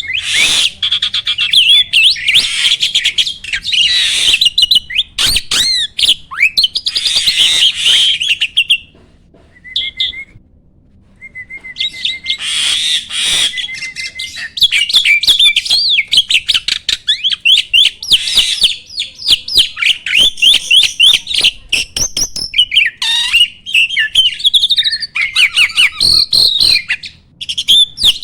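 A jalak (starling) singing a long, fast, varied song of chattering notes, whistles and trills, with a pause of a few seconds partway through.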